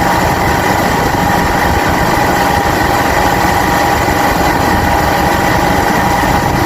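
Motorcycle engine running steadily while riding, a constant drone over a low rumble.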